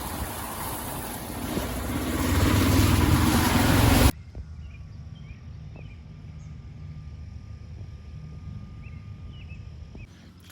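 A vehicle driving with heavy wind noise on the microphone, its engine rising for a couple of seconds before the sound cuts off abruptly about four seconds in. After that comes a much quieter steady low hum with a few faint short chirps.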